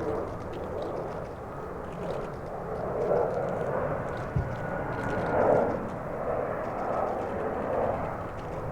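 Jet engines of an AIRDO Boeing airliner, heard as a rushing rumble that swells and fades in waves, with a faint thin whine in the middle. A brief low thump about four and a half seconds in.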